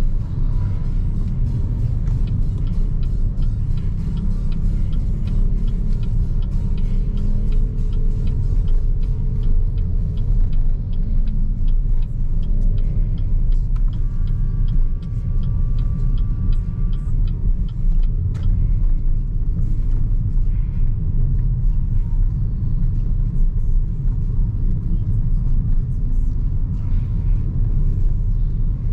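BYD Seagull electric car driving, a steady low rumble of tyre and road noise with no engine sound. A faint high steady tone holds for about three seconds near the middle, and there is a single click a little after it.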